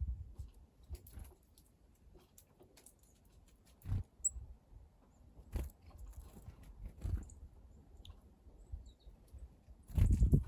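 Outdoor ambience at a birdbath: scattered faint taps and clicks with a few short, high bird chirps, broken by several low thumps, the loudest near the end.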